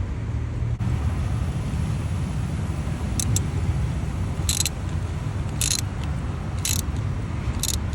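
A ratchet and spark-plug socket winding a new spark plug into a VQ35DE V6 cylinder head: a short burst of ratchet clicks comes about once a second from about three seconds in, over a steady low rumble.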